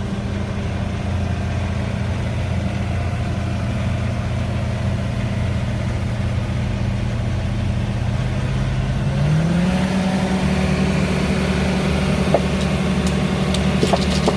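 A machine's engine running steadily, then revving up about nine seconds in and holding at the higher speed. A few sharp clanks come near the end.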